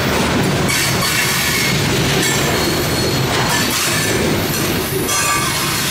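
Loaded coal hopper cars of a long freight train rolling past, with steady wheel-on-rail noise and intermittent high-pitched wheel squeal.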